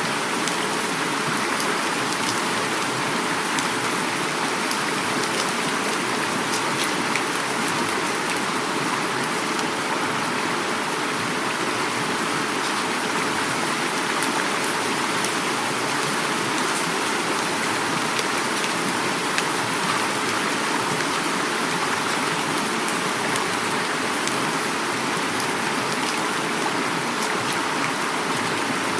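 Heavy rain falling together with a flowing river: a steady, even hiss of rain and running water, flecked with scattered sharp ticks of individual drops.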